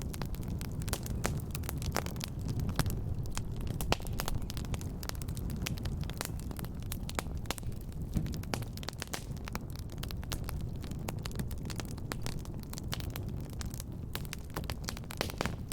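Fireplace fire crackling, with irregular sharp pops and snaps over a steady low rumble of burning.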